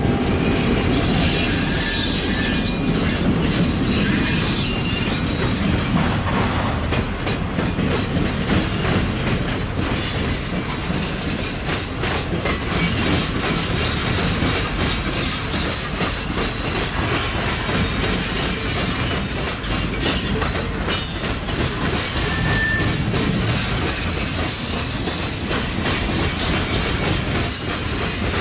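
Freight cars rolling past close by: a steady rumble of steel wheels on rail, with many short high-pitched wheel squeals and clicks as the wheels pass over rail joints.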